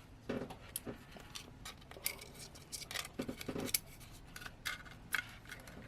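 Irregular small clicks and taps of smartphone parts being handled during a repair, as a cable is disconnected and the new display is positioned.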